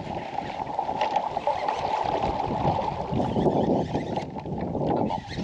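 Water sloshing and splashing against a kayak's hull, a steady crackly wash.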